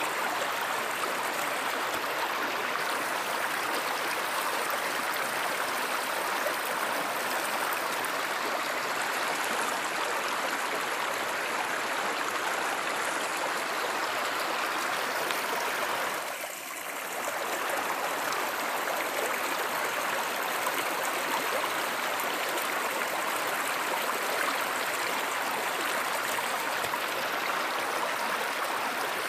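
A river or stream running steadily, an even rush of water, that dips briefly in loudness a little past halfway through.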